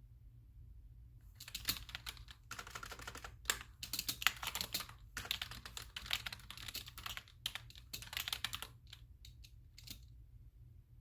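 Computer keyboard typing in quick, dense runs of keystrokes starting about a second in, with a short break midway, then thinning to a few single key presses near the end.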